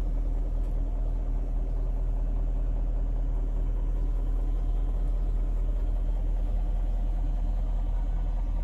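BMW 740i (E38 facelift) 4.4-litre V8 idling steadily while it warms up, a low, even rumble.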